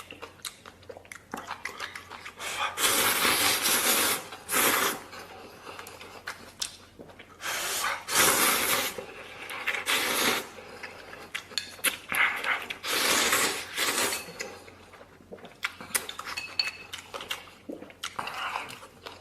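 A person slurping instant noodles in several long, noisy pulls, with chopsticks clinking against a bowl and chewing in between.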